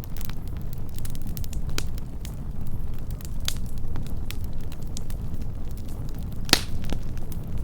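Close-up wood campfire burning: a continuous soft roar with scattered crackles and pops, the loudest sharp pop about six and a half seconds in.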